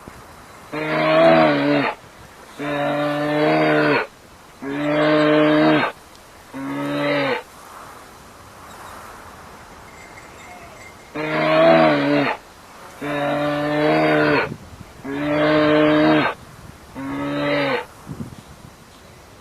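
Cow mooing: eight short, evenly pitched moos in two runs of four, with a pause of a few seconds between the runs.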